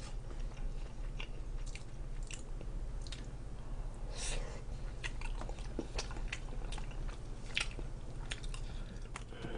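Close-miked eating sounds: chewing and mouth noises from a mouthful of kimchi stew taken about four seconds in, with scattered small clicks over a faint steady low hum.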